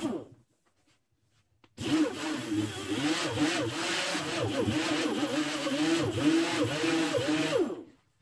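A small motor running, its pitch rising and falling over and over as if under changing load. It starts suddenly about two seconds in and stops near the end.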